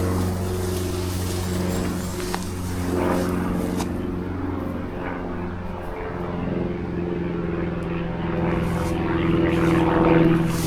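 Steady drone of an engine at one constant low pitch with overtones, swelling slightly near the end.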